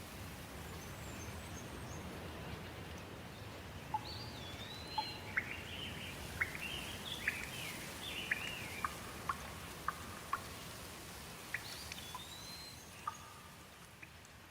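Steady rain falling, with a songbird singing over it: a run of quick chirps and short whistled phrases from about four seconds in, and another brief phrase near the end.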